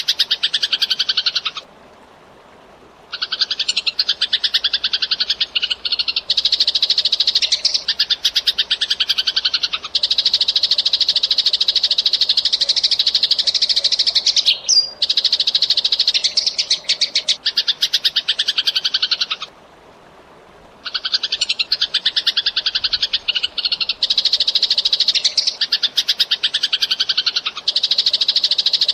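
Eurasian tree sparrow chirping fast and non-stop in dense runs of high chirps, broken twice by short silent gaps of about a second and a half.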